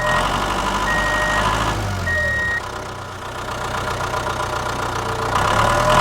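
A small engine running steadily, easing off about halfway and building up again near the end, with three short high beeps in the first few seconds.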